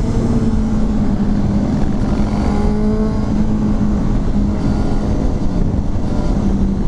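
Motorcycle engine running at a steady cruise, its pitch holding constant, under heavy rushing wind noise.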